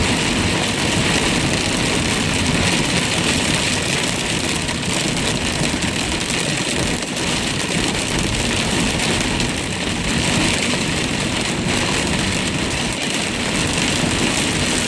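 Steady noise of a car driving through heavy rain: rain and tyre spray on the wet road, with the vehicle running underneath.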